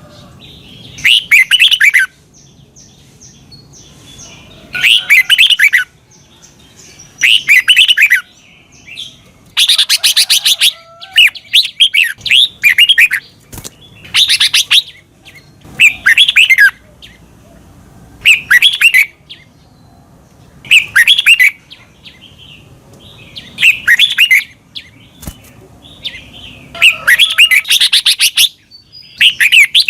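Red-whiskered bulbul singing short, bubbling phrases about a second long, one every two to three seconds.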